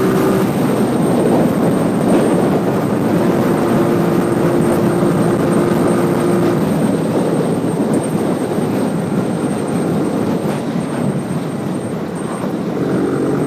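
Motorcycle riding along: its engine running at a steady speed under heavy wind rush over the microphone, with a steady engine hum that fades in and out.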